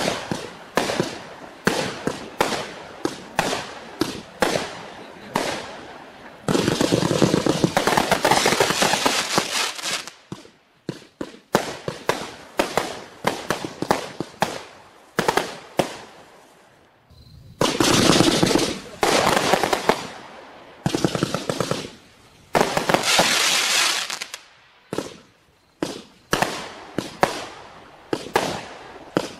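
Klasek C25220XFS multi-shot fireworks cake firing: a steady run of sharp shots about two or three a second, broken twice by long stretches of dense, rapid crackling pops.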